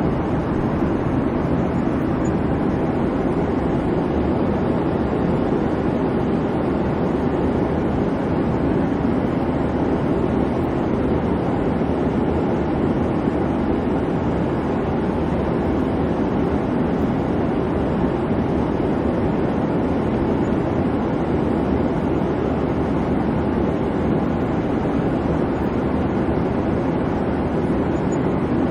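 Airliner cabin noise in flight: a steady, even rumble and hum of engine and airflow with no breaks or changes.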